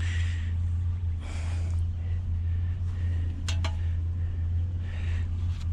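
Scrap metal being shifted and rearranged: short scraping shuffles and two sharp metallic clinks about three and a half seconds in, over a steady low hum.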